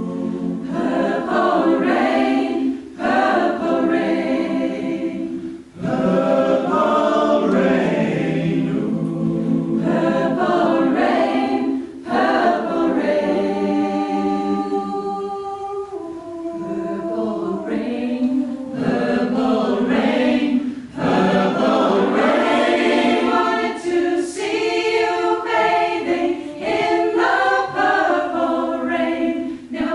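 A choir singing, mostly unaccompanied, in sustained phrases a few seconds long with brief breaths between them.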